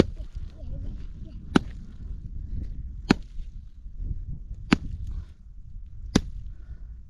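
Axe chopping wood: five sharp, evenly spaced strikes about a second and a half apart.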